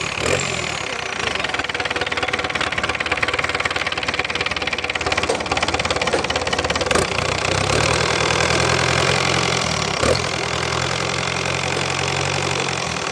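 Tata 407 truck engine running at idle with a steady rattling clatter. A little past halfway a low drone joins in, dropping out briefly a few seconds later.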